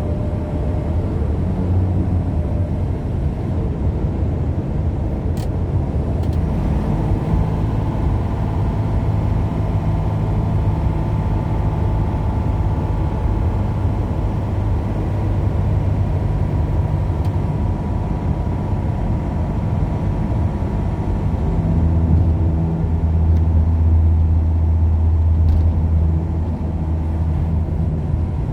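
A car driving along, its engine and the road noise making a steady low rumble that swells a little for a few seconds near the end.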